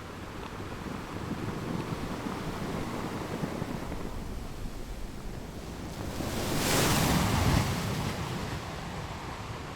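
Sea waves breaking on rocks: a rushing surf wash that builds through the first half, peaks in one loud crash about two-thirds of the way in, then eases off.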